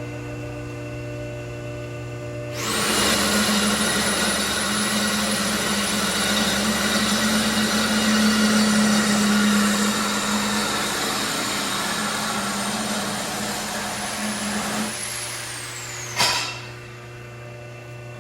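Air-powered shop tool running for about twelve seconds with a steady high whine and hiss, then winding down with a falling whine, followed by a sharp click.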